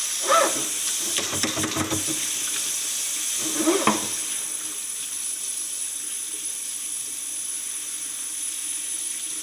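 Steady hiss of water being heated toward the boil, with a few short louder sounds in the first four seconds.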